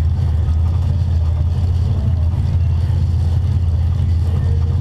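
Front-wheel-drive stock figure-8 race car's engine idling steadily while the car sits stopped, heard from inside its stripped cabin as an even low drone.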